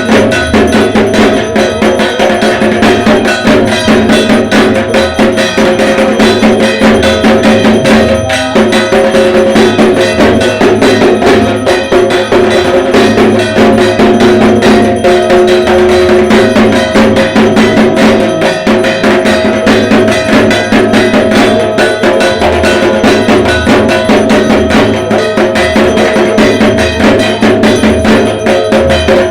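Dhak, the Bengali barrel drum played with sticks for Durga Puja, drumming a fast, dense, unbroken rhythm with a ringing tone.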